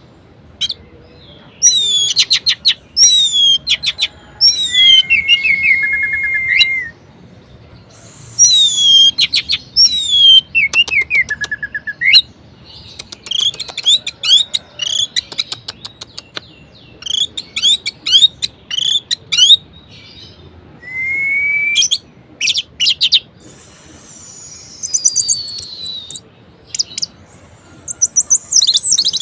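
Orange-headed thrush singing a varied song: phrases of quick sharp notes, falling whistles and a few longer held whistles, with short pauses between phrases.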